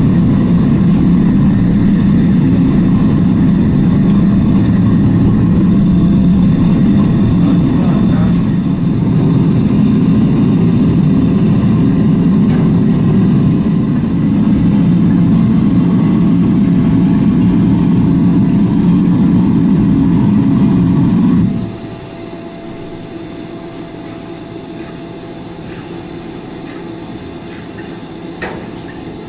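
A machine's motor running steadily and loudly, then cutting off suddenly about 21 seconds in, leaving a quieter background with two short knocks near the end.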